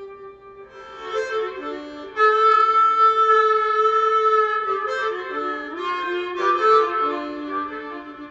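Blues harmonica playing an instrumental break. It moves between notes and holds one long, loud note from about two seconds in.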